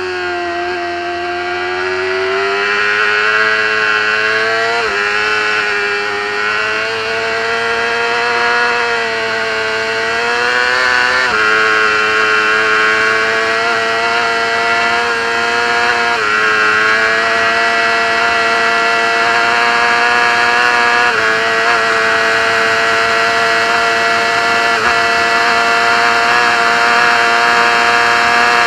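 Racing motorcycle engine heard from onboard, accelerating hard: the revs climb and then drop sharply at upshifts about 5, 11 and 16 seconds in, with a smaller change a few seconds later. After that it holds high revs steadily at speed.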